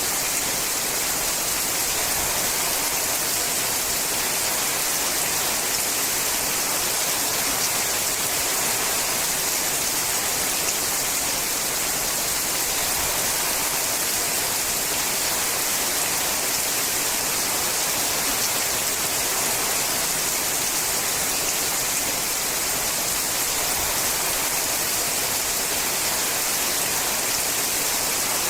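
Steady, dense rain falling on a sheet-metal roof, an even hiss that never lets up and in which no single drops stand out.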